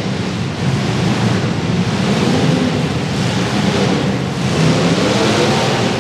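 Demolition derby cars' engines running and revving together in a dense, steady rumble.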